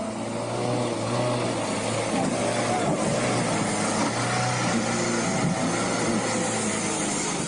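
A motor vehicle's engine running steadily, with a constant low hum and wavering higher tones over a noisy rush.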